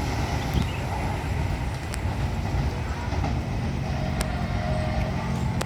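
Electric commuter train running at the station platform: a steady low rumble with a few sharp clicks, and a low steady hum setting in about halfway through.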